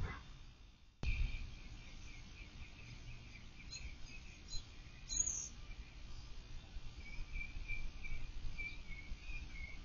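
Outdoor background noise with small birds chirping in a repeated series, plus one louder, higher chirp about five seconds in. The background drops out briefly and comes back suddenly about a second in.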